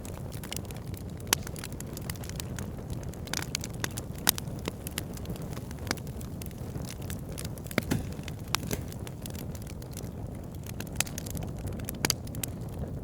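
Wood fire burning in a fireplace: a steady low rumble of flames under frequent sharp crackles and snaps, with a few louder pops scattered through.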